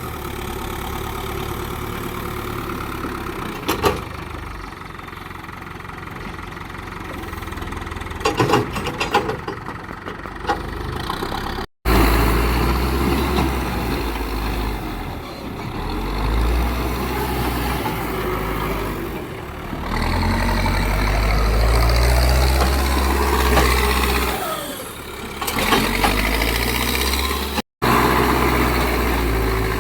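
Diesel engines of a backhoe loader and tractors at work loading soil, the engine note rising and falling under load. There are a few sharp knocks and clanks in the first part, and the engine sound breaks off and changes abruptly twice.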